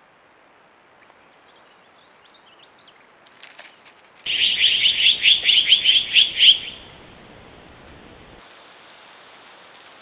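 A bird's loud, rapid chattering call, a run of about a dozen quick notes at roughly five a second lasting about two and a half seconds, starting about four seconds in. Before it, a few faint high chirps.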